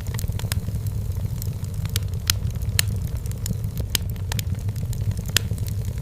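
Wood fire burning in a fireplace: firewood crackling with frequent irregular sharp pops over a steady low rumble of the flames.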